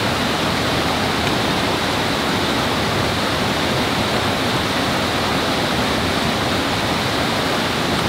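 Steady rushing of flowing water, an even noise with no change in level.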